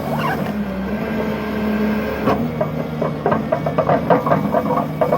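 A machine's engine running steadily. From about halfway through, a quick, uneven run of sharp knocks and cracks joins it.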